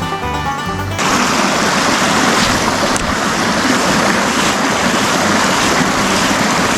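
Bluegrass banjo music cuts off about a second in, giving way to the steady rush of flowing stream water.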